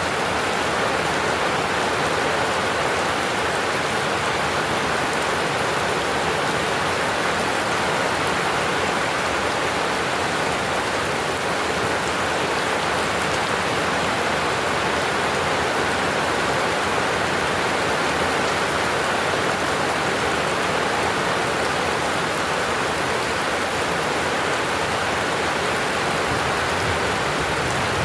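Heavy rain falling steadily and hard on surfaces, a dense even hiss with no break.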